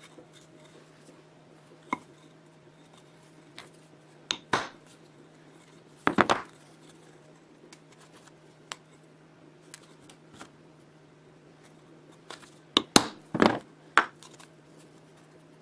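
Metal parts and hand tools being handled: scattered clicks, clinks and short scrapes, loudest in two clusters about six and thirteen seconds in, over a steady low hum.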